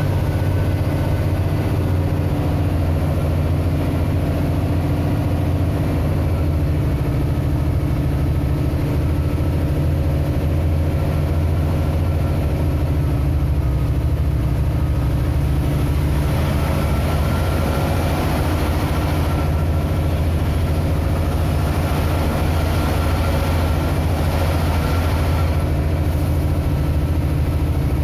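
A vehicle engine runs steadily with a low hum throughout, as the vehicle drives downhill in heavy rain. A hiss grows louder through the second half and eases near the end.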